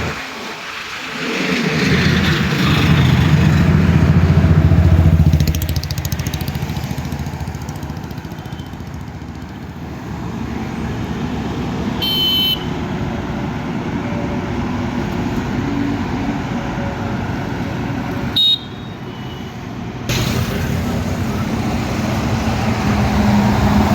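Highway traffic going by close at hand. A vehicle's engine runs loud in the first few seconds, then fades into steady road noise, with two short horn toots, one about halfway through and one about three-quarters of the way.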